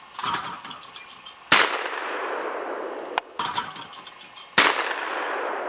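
Two shotgun shots about three seconds apart, each ringing out with a long fading tail. Each shot follows a metallic clank about a second and a half earlier. The shots miss the clay target.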